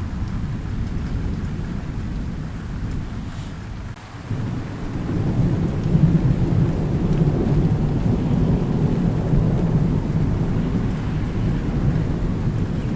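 Thunderstorm: a low rolling rumble of thunder over steady rain. The rumble eases and dips about four seconds in, then builds again a second later and keeps rolling.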